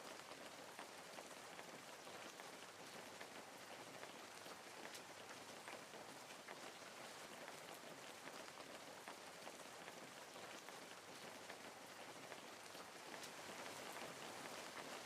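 Faint steady hiss with scattered soft ticks, like light rain.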